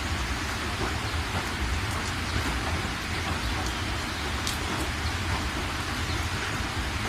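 Steady rain falling, a dense even hiss of drops with a constant low rumble underneath and a few sharper drop ticks.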